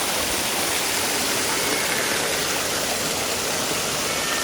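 Mountain valley stream rushing steadily, water running loud and even with no let-up.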